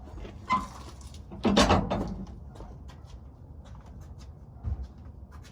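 Knocks and clatter of parts and tools being handled, with a louder clatter about one and a half seconds in and a dull thump near the end.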